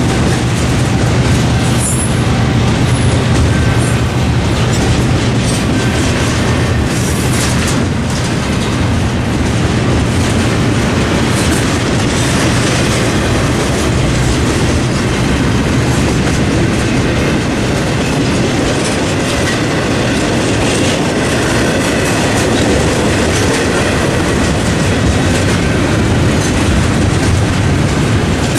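Double-stack intermodal freight cars of a freight train rolling past at close range. The steel wheels make a loud, steady noise on the rails that does not let up.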